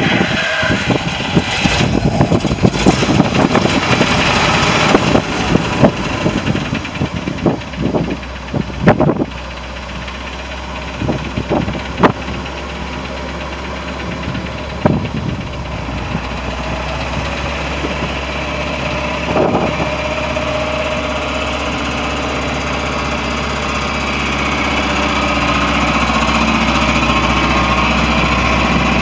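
Ford grain truck's engine running, with irregular knocks and bangs during the first nine seconds or so, then settling into a steady idle that grows a little louder toward the end.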